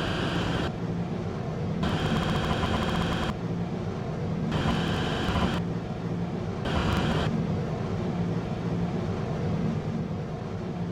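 Stationary electric train during coupling work: a steady low electrical hum, with a higher buzzing whine that cuts in and out several times.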